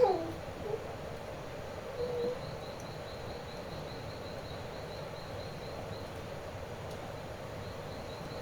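A short animal call trails off at the start, and a brief low hoot-like call follows about two seconds in, over a steady background hiss. A faint high chirp repeats a few times a second from then on.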